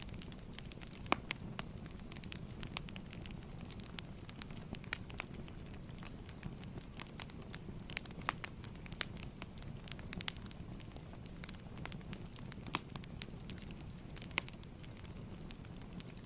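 Wood fire crackling in a fireplace: a steady low hiss of flames with irregular sharp pops and snaps, a few louder ones standing out.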